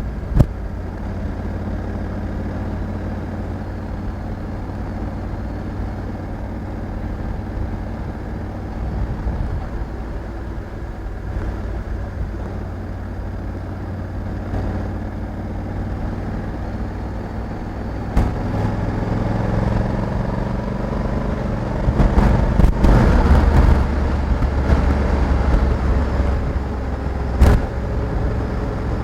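Honda Africa Twin 1100 DCT's parallel-twin engine running under way, with wind and road noise. About two-thirds of the way through the engine note rises and gets louder, as under acceleration, and a few short knocks come through.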